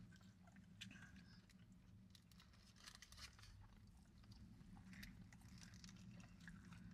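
Faint chewing of people eating burgers, with scattered soft mouth clicks and bites over a steady low hum.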